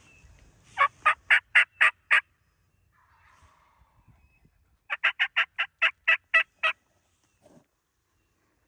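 Turkey yelping: two runs of evenly spaced, sharp, loud notes at about four a second, six notes and then about nine after a short pause.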